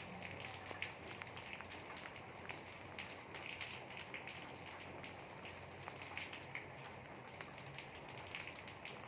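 Rain falling steadily, an even hiss with many individual drops ticking and splashing on a surface.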